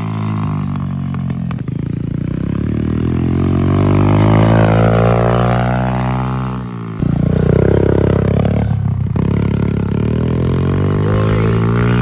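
Vehicle engine running steadily with a deep, droning tone, changing abruptly about a second and a half, seven and nine seconds in.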